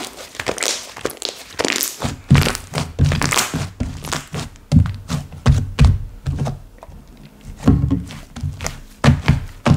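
Slime being pressed and squished by hand, giving irregular crackling clicks and soft low thuds.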